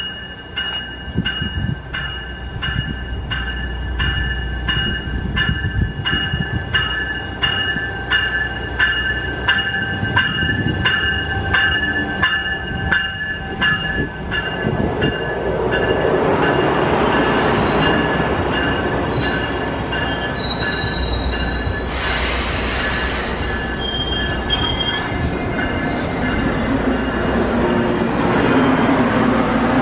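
Coaster commuter train pulling into the platform. A warning bell rings about twice a second through the first half, then the rumble of the coaches passing close by takes over, with high brake and wheel squeal in the second half as the train slows to a stop.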